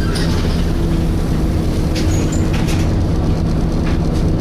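Inside a Volvo B7TL double-decker bus on the move: the engine and its hoover-like cooling fan run with a steady hum over a low rumble. A few brief rattles or clicks come from the body.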